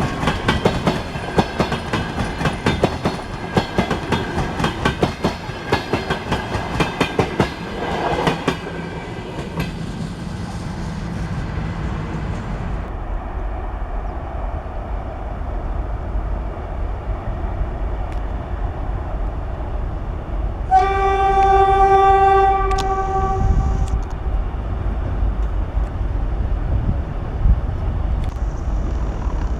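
Train wheels clicking over rail joints as a train passes, the clicks dying away after about ten seconds and leaving a steady low rumble. Past the middle, a locomotive horn sounds once, a single steady tone lasting about two seconds.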